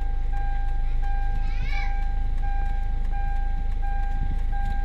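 Hyundai Santa Fe diesel engine idling steadily with the aircon on, running again after its body ground fault was repaired, while an electronic warning chime beeps in an even repeating pattern. A brief high cry, like a cat's meow, sounds near two seconds in.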